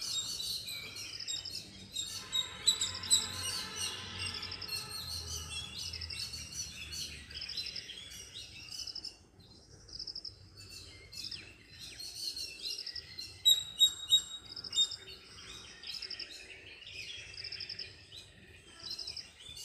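Several birds chirping and trilling, with short high calls repeating throughout and a longer, lower call from about two to six seconds in.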